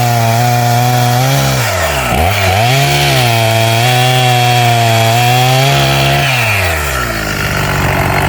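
Two-stroke chainsaw running at high revs and cutting wood, its pitch dipping and recovering twice under load. About six seconds in the throttle is let off and the engine winds down to a lower, rougher running.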